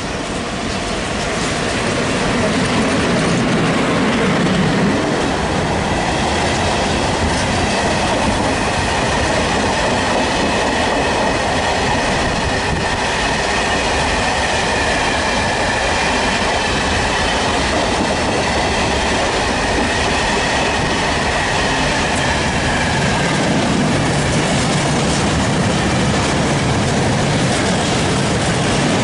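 Freight train of open coal wagons hauled by an ET22 electric locomotive rolling past at speed, the wheels clattering over the rail joints. A high wheel squeal runs through the middle of the pass.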